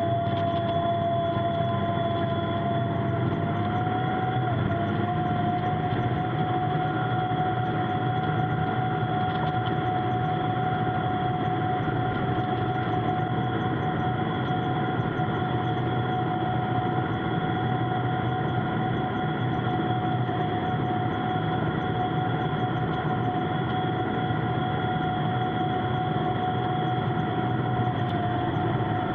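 Tractor engine running steadily under a constant load, with a steady whine that steps up slightly about four seconds in.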